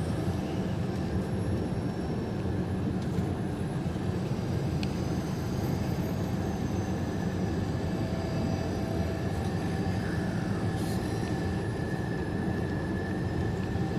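Steady engine and road drone inside a semi truck's cab while cruising on the highway, with a faint, steady high whine over it.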